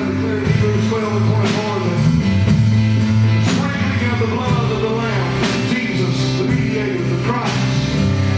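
Live gospel band music: a drum kit with cymbal strikes about once a second over a bass guitar line and piano.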